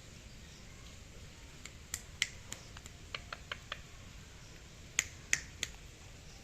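Sharp clicks in irregular groups: a run of several about two seconds in, a quick run of softer clicks just after three seconds, and three loud clicks close together about five seconds in.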